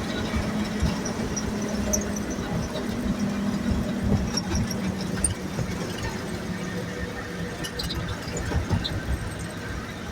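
1963 Chevy dump truck on the move, heard from the cab: engine and drivetrain running with a steady whine that drops slightly in pitch about halfway through, over a low rumble with rattles and knocks.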